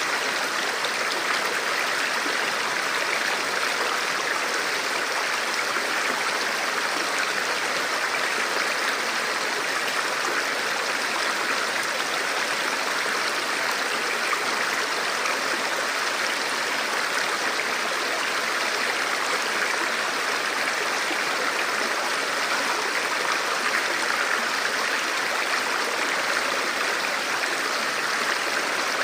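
Forest river or stream flowing steadily over rocks, a continuous rushing of water.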